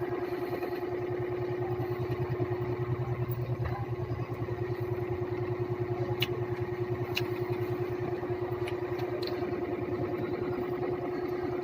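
A steady motor hum with a fast, even pulsing, and a few sharp clicks about six and seven seconds in.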